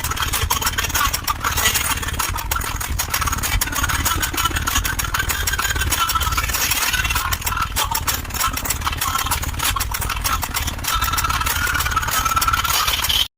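Car audio subwoofers played at very high volume in a bass demo, the deep bass making the car's panels and trim rattle and buzz throughout. The sound cuts off abruptly near the end.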